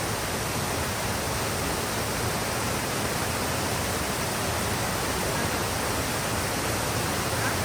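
Flowing water rushing steadily, like a forest stream or small waterfall: an even, unbroken hiss across all pitches.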